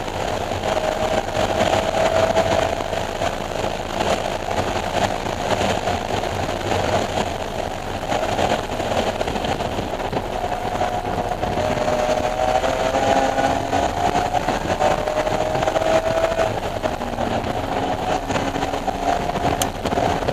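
BMW E46 M3's S54 straight-six engine running hard on a race track, its pitch climbing steadily through the revs and dropping back several times as it shifts or lifts, over steady wind and road noise.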